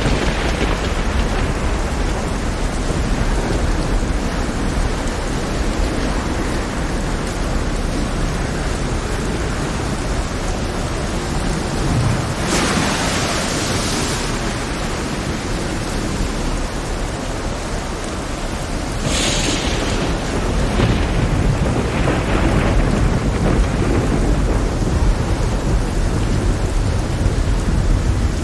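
Heavy rain with thunder: a steady downpour hiss over a continuous deep rumble, with brief louder hissing surges about halfway through and again about two-thirds of the way in.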